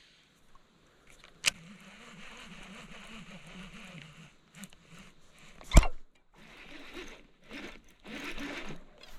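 Spinning or baitcasting fishing reel whirring steadily for a couple of seconds after a sharp click, as line is cast out or wound in. A single loud knock follows past the middle, then irregular rustling and bumping of handled gear.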